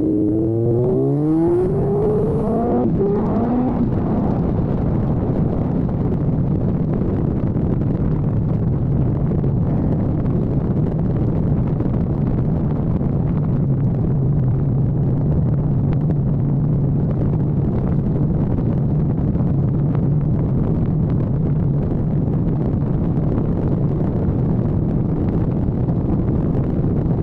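Kawasaki ZX-14R's inline-four engine accelerating hard through the gears: the pitch climbs and drops several times in the first few seconds. It then runs on at steady cruising revs.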